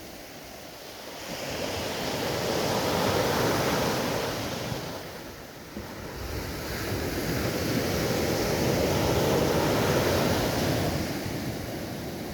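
Waves surging in and washing back, with two swells that each build over a couple of seconds and then fade.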